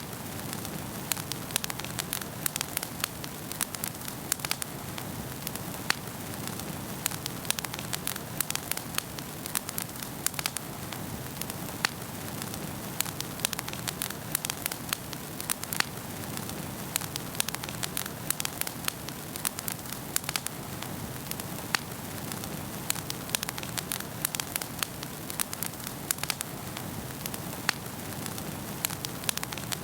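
Wood fire burning in a fireplace: a steady low hiss with frequent irregular sharp crackles and pops.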